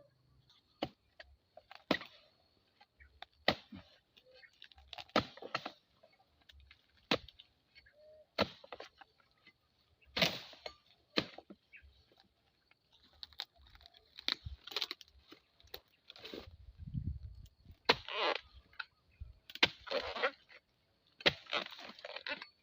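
Oil palm harvesting blade chopping at tough, hard palm fronds: irregular sharp strikes every second or two, some followed by a rustling scrape of the frond, with a low thud about seventeen seconds in.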